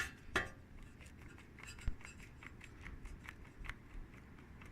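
Loose drive chain on a Yamaha TT-R dirt bike being worked by hand, giving faint, irregular light metallic clicks and rattles.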